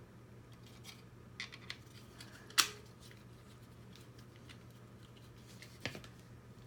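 Small plastic robot-kit parts being handled: light scattered clicks, with a sharp click about two and a half seconds in and another near the end, over a faint steady hum.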